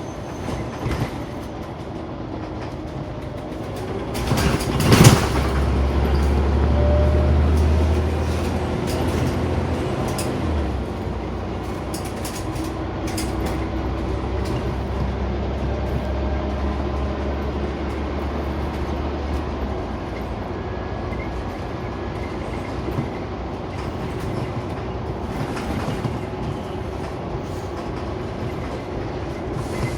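Interior of a Scania Omnicity single-decker bus on the move: the diesel engine drones low under rattles and road noise. A loud sharp knock sounds about five seconds in. The engine drone is strongest for the next fifteen seconds, drops in pitch once around ten seconds in, then eases off.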